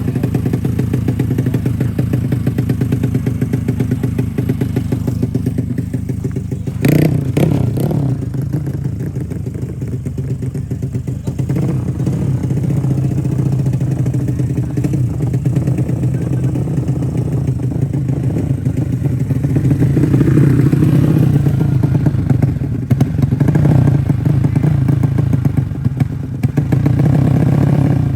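Small four-stroke underbone drag-race motorcycle engines running steadily, growing louder from about twenty seconds in, with a sharp knock about seven seconds in.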